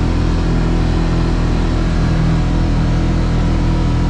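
Kawasaki KRX side-by-side's parallel-twin engine running at a steady pace, a constant drone with no change in pitch.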